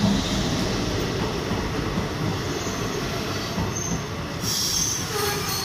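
DEMU passenger coaches rolling past, a steady rumble of wheels on rail that slowly fades, with a brief high wheel squeal near the end.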